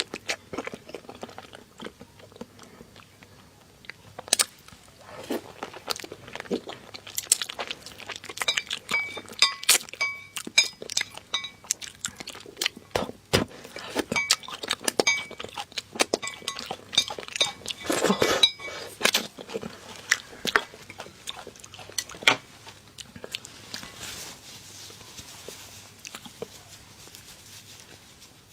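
Close-miked eating sounds: chewing and crunching mixed with many short clicks. Through the middle come bursts of small ringing clinks, like utensils tapping against dishes.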